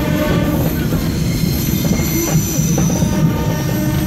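Passenger train running, heard from on board: a steady rumble of wheels on rails, with high-pitched wheel squeal setting in about a second in.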